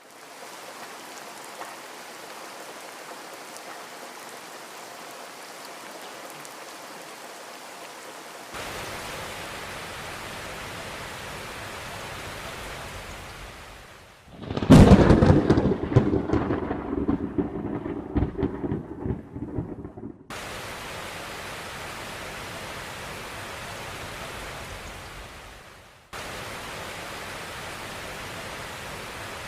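Steady rain falling. About 15 seconds in, a loud thunderclap breaks out and rumbles on in jagged peaks for several seconds before cutting off suddenly. The rain sound also shifts abruptly a few times where recordings are joined.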